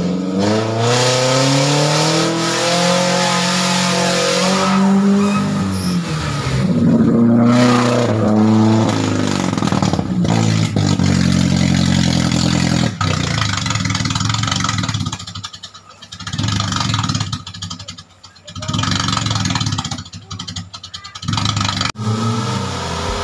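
Suzuki Jimny off-road 4x4 engines revving hard, the pitch rising and falling, while pushing through deep muddy river water. In the last several seconds the sound drops away and comes back several times.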